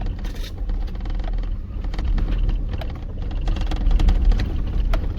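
A vehicle driving over a rough dirt track: a steady low rumble of engine and tyres, with frequent small knocks and rattles from the bumps.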